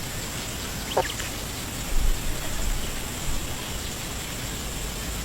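Steady outdoor background noise, with one brief bird call about a second in and a low thump about two seconds in.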